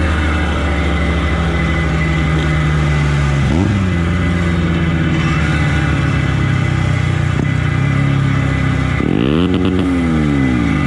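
Motorcycle engine running steadily under way, with a short blip in revs about three and a half seconds in and a rev that rises and falls again near the end.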